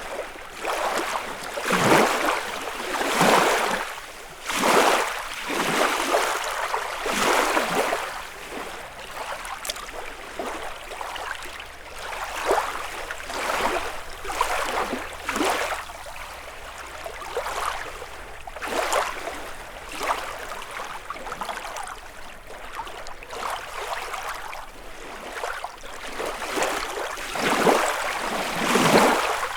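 Small lake waves lapping and washing on the shore, one wash every second or so, with quieter spells between the livelier runs.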